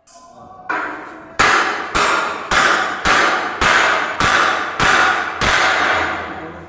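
A hammer striking metal in a steady series of about nine blows, a little over half a second apart, each one ringing on briefly before the next.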